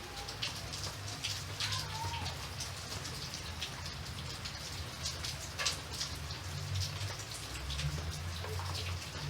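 Rain falling steadily, with many individual drops striking a surface at irregular intervals over an even hiss.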